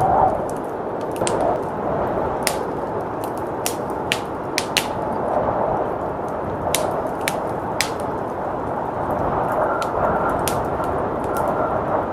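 Wood fire crackling, with sharp irregular pops, over a steady rush of blizzard wind. A faint thin whistle joins the wind near the end.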